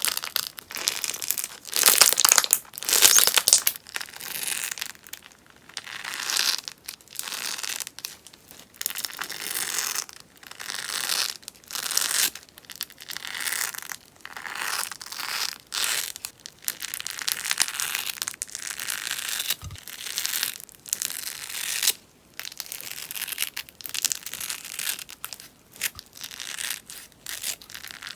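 Popping sponge slime being squeezed and worked, giving repeated bursts of crackling and popping, a new burst about every second or two.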